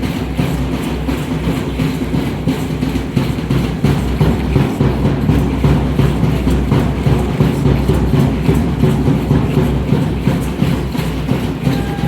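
Aztec dance drumming: a fast, steady beat with a heavy low rumble.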